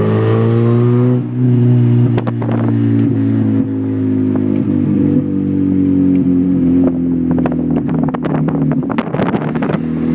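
Mazda 323 engine running through an exhaust with no mufflers while the car is driven, its pitch climbing at first, dipping briefly about a second in, then holding and slowly falling. From about seven seconds in, a rapid crackle of exhaust pops rides on the engine note.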